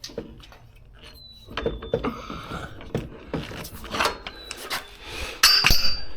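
Tools and parts being handled during brake work: irregular clinks, knocks and scraping, loudest in a clatter near the end.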